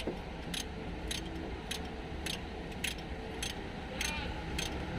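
Steady, evenly spaced sharp ticks, a little under two a second, over a low background hum.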